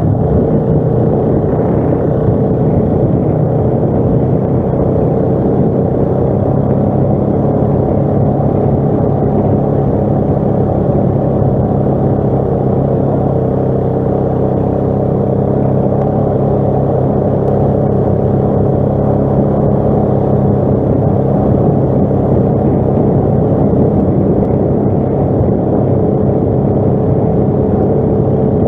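ATV engine running steadily at an even speed while riding, its pitch holding constant, with a slight easing off around the middle.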